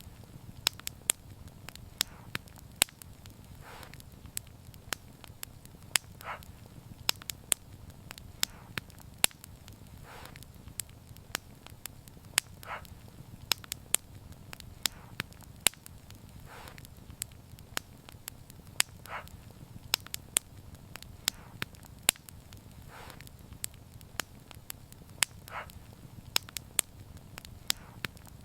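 Wood fire crackling, with frequent sharp snaps and pops over a low steady rumble, and a softer, duller crackle repeating about every two seconds.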